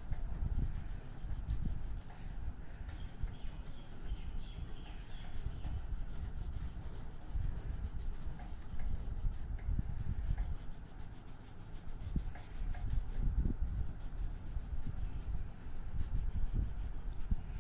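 Colouring on paper: a drawing medium rubbed back and forth across the sheet in continuous strokes.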